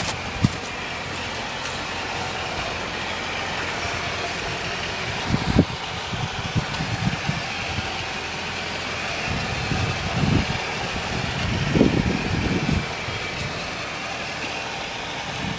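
2000 Toyota Camry's four-cylinder engine idling steadily, heard from outside the car, with a few short low thumps.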